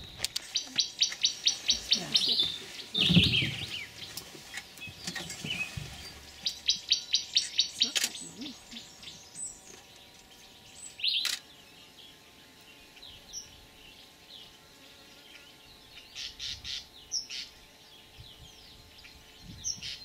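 Birdsong: fast trills of evenly repeated high notes, about seven a second, in three bouts, with scattered chirps between. A short low sound about three seconds in is the loudest moment.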